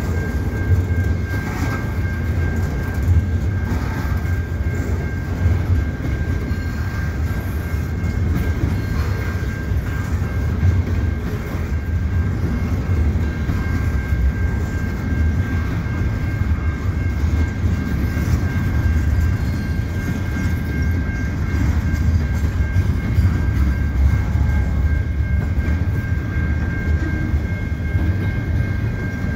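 Double-stack intermodal freight cars rolling slowly past: a steady low rumble of wheels on rail, with a steady high-pitched ringing tone above it.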